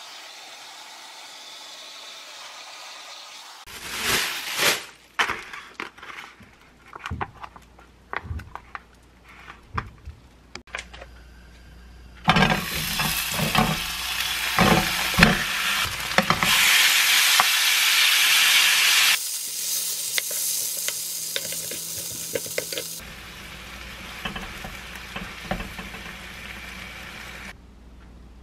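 A hair dryer runs steadily for the first few seconds, followed by a stretch of scattered knocks and clicks. About twelve seconds in, marinated baby octopus (jjukkumi) starts sizzling loudly as it fries and is stirred in a lightly oiled nonstick pan. The sizzle dies down and the sound is quieter over the last few seconds.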